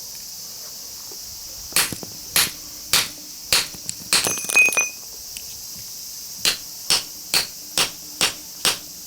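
Hammer blows on a steel cold chisel cutting into a small transformer's core: a series of sharp metal strikes. A short cluster with a brief metallic ring comes around the middle, then a steady run of blows about two a second near the end.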